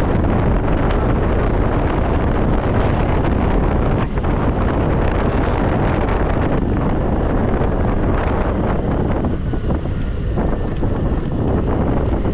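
Wind rushing over the microphone of a scooter on the move: a steady, loud rush, heaviest in the low end.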